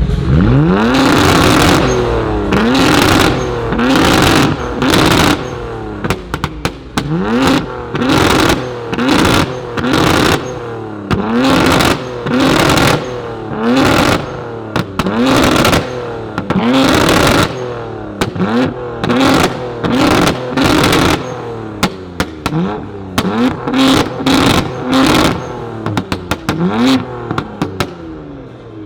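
A performance car engine revved hard in quick blips, more than a dozen in a row at about one a second. Each blip sweeps up in pitch to a loud peak and drops away, with sharp cracks from the exhaust between some of them.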